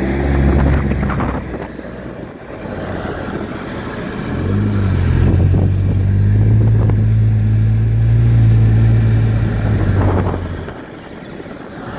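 Turbocharged Chevy engine of a Vanderhall three-wheeler under way, with wind rush. Its pitch climbs at the start and fades about two seconds in, then rises again, holds steady for about six seconds and eases off near the end.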